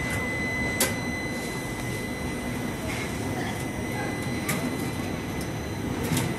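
Coaches of a passenger train rolling slowly past: a steady rumble with a few sharp clicks and knocks scattered through it, and faint voices.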